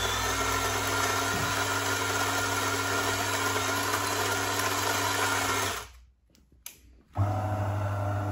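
DeLonghi bean-to-cup coffee machine making a cup: the built-in grinder runs steadily for about six seconds and stops. After a short pause, a steady buzzing hum, typical of the machine's water pump, starts near the end.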